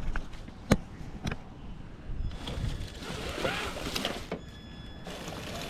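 1/10 scale RC rock crawler (Traxxas TRX4) driving on rock: its electric motor and geared drivetrain run in two bursts of a couple of seconds each, with a couple of sharp knocks in the first second or so.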